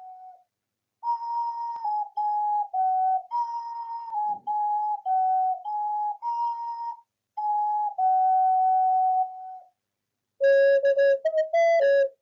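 Ocarina playing a slow, simple melody of clear held notes in short phrases, with a couple of brief pauses and a run of quicker notes near the end.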